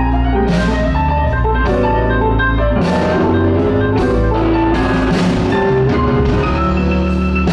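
Live blues band playing an instrumental passage: a run of held melodic notes over bass and drums, with cymbal hits every second or so.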